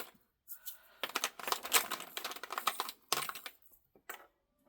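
Small plastic containers of diamond-painting drills clicking and rattling against each other as they are handled and sorted, a busy clatter for a couple of seconds, then a few single clicks.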